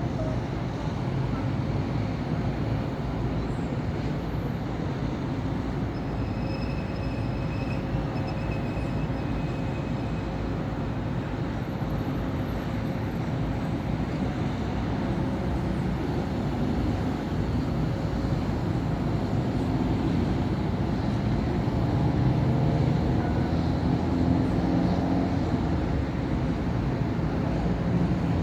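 Busy city-avenue traffic: cars and buses passing in a continuous rumble of engines and tyres, growing somewhat louder over the last several seconds. A brief high squeal sounds about six seconds in.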